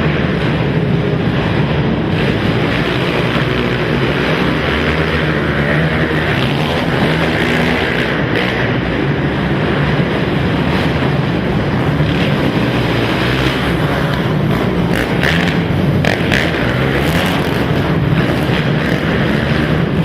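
Several quad (ATV) racing engines running hard together, a continuous dense engine noise with overlapping engine notes rising and falling as riders rev and back off.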